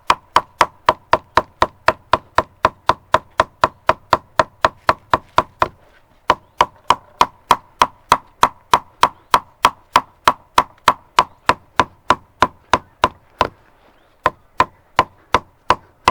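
Yucca leaves being beaten with steady, even blows, about two and a half a second, to break the pulp away and free the fibres. The rhythm stops briefly twice, about six seconds in and again about a second near the end.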